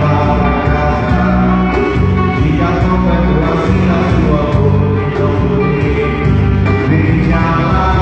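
Live band music with singing, playing loud and continuously.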